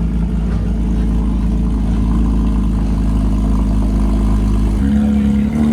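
Car engine running loudly at steady revs, its note stepping up slightly near the end.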